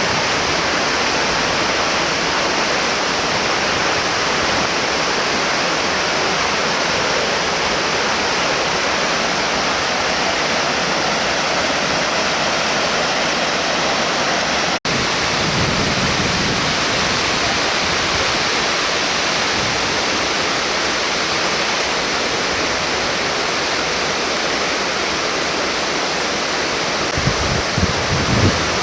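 Ryumon Falls' waterfall, a steady loud rush of falling water. The sound cuts out for an instant about halfway through, and some low rumbling joins it near the end.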